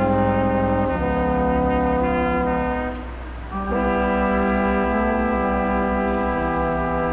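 Brass ensemble playing slow, held chords of Christmas music, with a short break about three seconds in before the next chord sounds.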